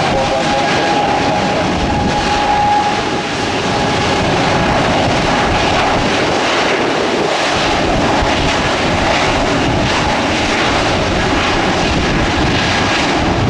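Aircraft engines running loud and steady, with a whine that fades about three seconds in.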